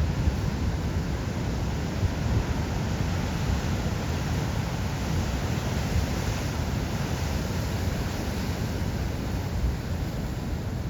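Heavy ocean surf: a steady wash of breaking waves, swelling slightly about halfway through.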